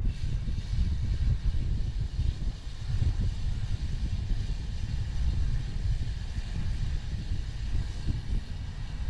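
Wind buffeting the microphone of a 360 camera on a moving bicycle: a constant, fluttering low rumble, with a steady hiss above it from the ride.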